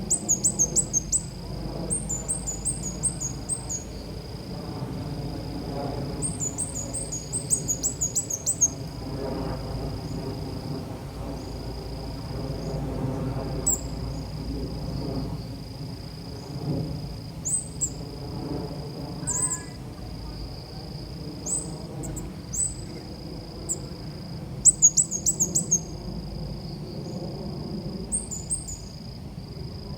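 Lure recording of a small songbird's call: bursts of rapid, very high chirps, four or five notes in quick succession, coming every few seconds, over a steady high-pitched whine and low background noise.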